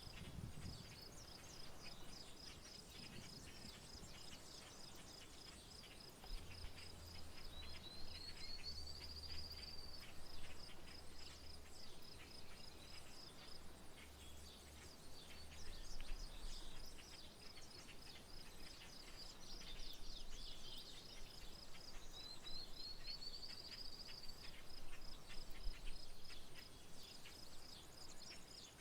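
Rural nature ambience: an insect's high, rapidly pulsing trill runs on evenly while birds call over it, with scattered short chirps and two rising whistled calls, one about eight seconds in and one about twenty-two seconds in.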